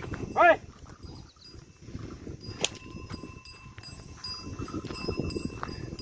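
Bells on farm animals ringing in irregular jingles, with a loud, short animal call about half a second in.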